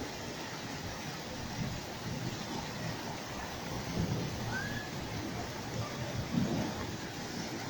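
Steady rain during a thunderstorm, with low rumbling of thunder swelling a little around the middle and near the end.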